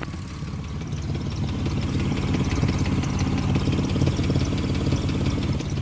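2005 Ford Mustang engine running, with a fast light ticking over the exhaust note. It grows louder during the first two seconds and eases back near the end.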